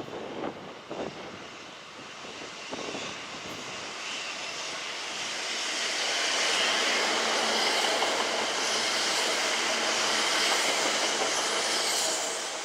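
Kintetsu electric train running through the station: a few knocks early on, then a rushing sound that builds, stays loud for several seconds and drops off near the end.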